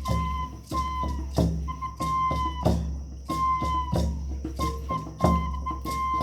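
A flute playing long held notes that dip slightly in pitch as each ends, over a hand drum beating steadily about one and a half times a second.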